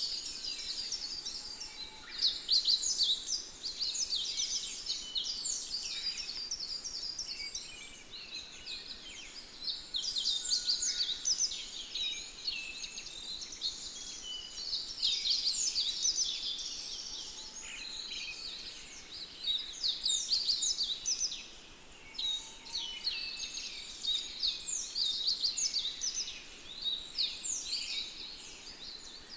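A dense chorus of many small birds chirping and twittering over one another without a break, the whole chorus swelling and easing every few seconds.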